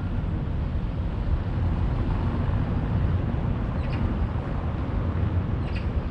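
Steady low outdoor rumble of city background noise, with a couple of faint short clicks about four and six seconds in.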